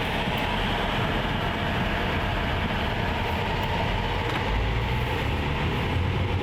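Steady road and engine noise of a car being driven.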